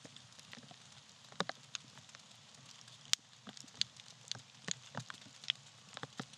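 Campfire of dry tree bark burning and crackling: irregular sharp pops, a few a second, over a soft steady hiss, the sharpest pop about three seconds in.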